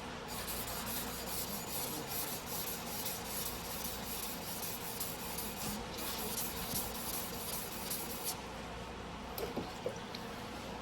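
Single-bevel sujihiki blade rubbed back and forth on a whetstone in repeated strokes, a scraping hiss, stopping about eight seconds in, followed by a few light clicks.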